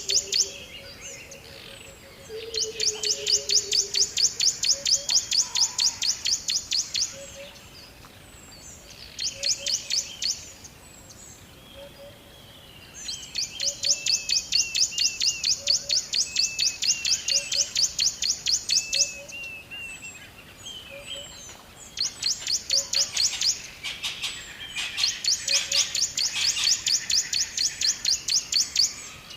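Songbirds singing, one repeating a rapid, high trill in bouts of a few seconds each with short pauses between, while fainter chirps sound in the gaps.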